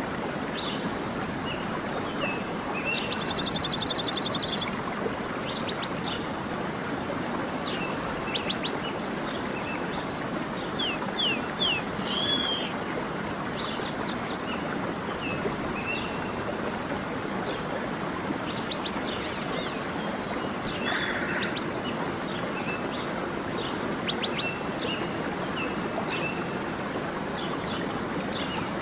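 Stream flowing with a steady rush, with many small birds chirping and whistling over it, including a rapid trill about three seconds in.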